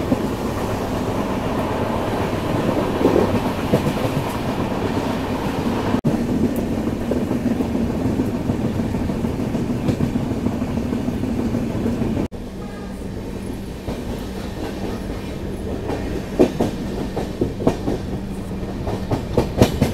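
Express passenger train running on the line: a steady rumble and rattle of the coaches. About twelve seconds in it drops a little quieter, and in the last few seconds the wheels clack sharply over rail joints.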